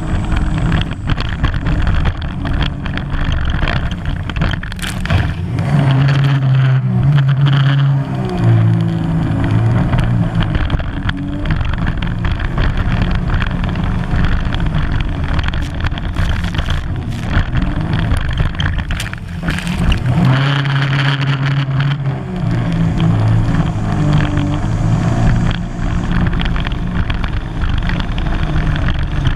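Sea-Doo GTR 215 jet ski's supercharged engine running hard through maneuvers. Its pitch shifts with the throttle, rising and falling a few seconds in and again about two-thirds through, over the rush of water spray and wind.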